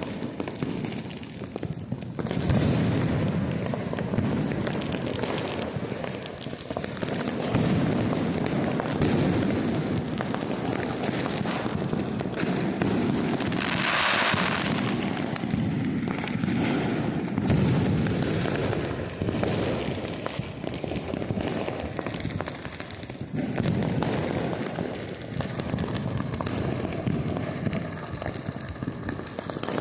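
Deepavali firecrackers and fireworks going off nonstop: many overlapping bangs, booms and crackling with no break. About halfway through, a louder high hiss lasts about a second.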